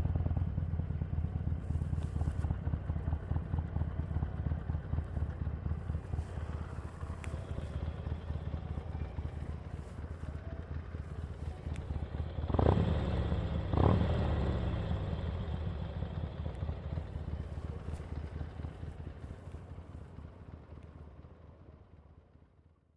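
Harley-Davidson 883's air-cooled V-twin running with a steady low pulse while riding, with two short revs about a second apart a little past halfway. The sound then fades away near the end.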